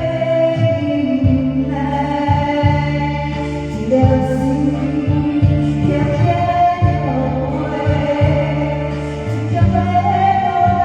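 Singing over a karaoke backing track, with sustained melody notes over a steady, rhythmic bass line.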